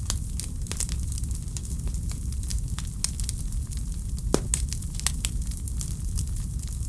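Wood fire in a fireplace crackling, with irregular sharp pops and snaps over a steady low rumble; one louder pop about four seconds in.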